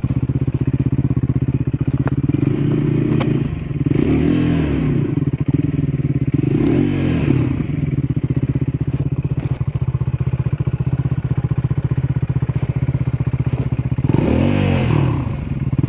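Triumph Scrambler 400 X single-cylinder engine on its stock exhaust running at low revs off-road, opened up briefly three times, each time rising and falling in pitch. Sharp clicks and knocks from the bike come through over the engine.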